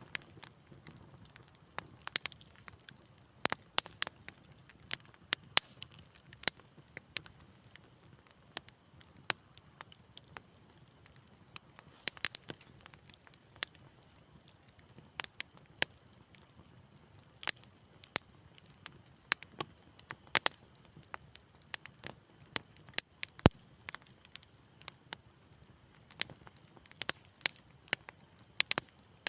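Wood fire crackling in a fireplace: irregular sharp pops and snaps, a few a second, over a faint low rumble of the flames.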